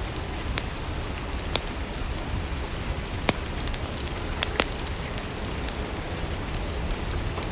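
Steady gentle rain, with a few sharp single ticks scattered through it.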